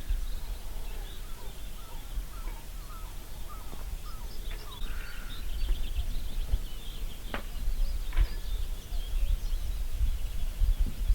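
Many small birds chirping and singing, short calls overlapping, over a steady low rumble such as wind on the microphone.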